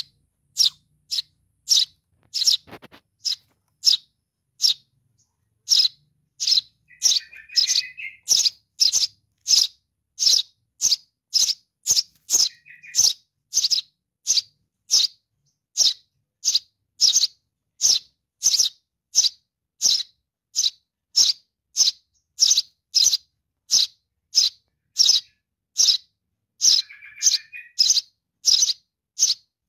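A young sparrow giving short, high chirps over and over at about two a second, the calls of a chick calling for its parent. A lower, rougher chattering call joins in three times.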